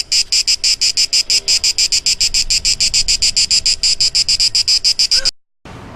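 Insect song: a loud, fast, even pulsing of about eight pulses a second, high-pitched, that cuts off suddenly near the end.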